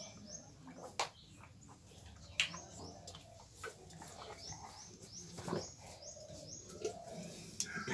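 Small birds chirping in quick series of short, high chirps, with a few sharp clicks among them.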